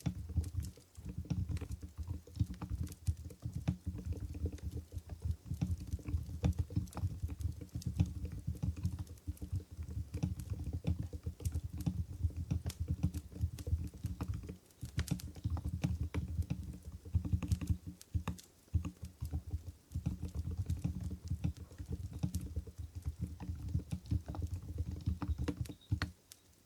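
Typing on an Mstone Groove GV10 keyboard with low-noise Coral switches (45 g): steady runs of keystrokes with a few brief pauses, stopping shortly before the end.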